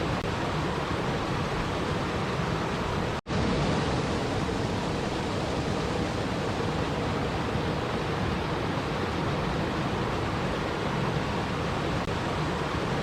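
Steady rushing water noise, like rain or a stream, spread evenly from low to high pitches. About three seconds in it drops out to silence for an instant and then carries on.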